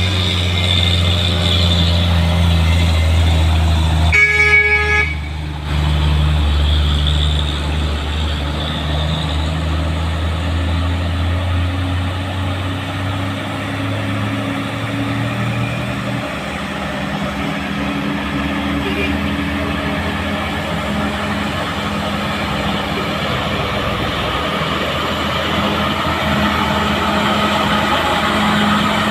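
Heavy diesel truck engines labouring up a steep climb, a low steady drone that shifts in pitch partway through. About four seconds in, a truck horn gives one short toot.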